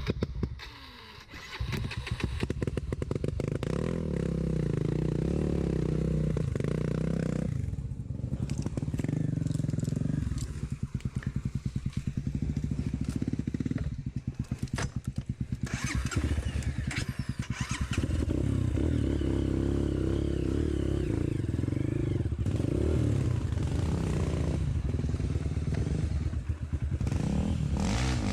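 Single-cylinder four-stroke trail motorcycle engine running off-road, its pitch rising and falling with the throttle and easing off a few times, after a brief dip just after the start.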